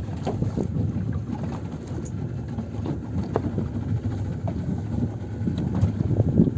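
Motorboat under way at sea: a rough, low rumble of engine, wind and water, with many small knocks and slaps from the hull meeting the waves.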